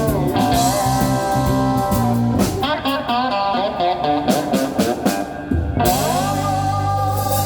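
Blues slide playing on a cigar box guitar: sustained notes with the slide gliding up into pitch near the start and again about six seconds in, over steady low ringing notes, with a choppier run of picked notes in the middle.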